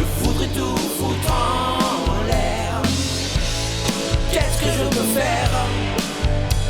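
Rock band mix of drums, bass and a wavering lead line in a passage without sung words, run through a Chandler Limited EMI TG12413 Zener Limiter on the mix bus.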